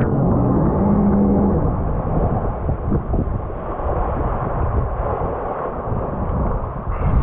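Jet ski engine running under way, with wind buffeting the microphone: a loud, steady, dense rumble.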